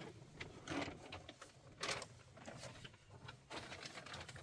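A string of irregular short scrapes and rustles from things being handled, a few stronger bursts among them about a second and two seconds in.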